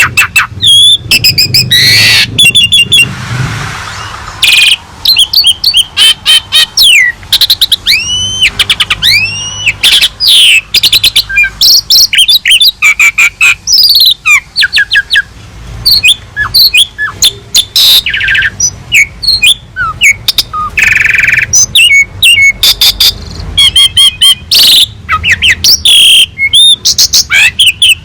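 Asian pied starling (jalak suren) singing loudly without pause: a fast, varied run of sweeping whistles, chirps, clicks and harsh rasps, filled out with imitated calls of other birds.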